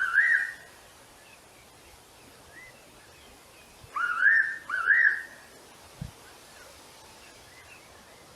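A wild bird giving a whistled call of two rising, wavering notes at the start, repeated about four seconds in, with faint softer calls between.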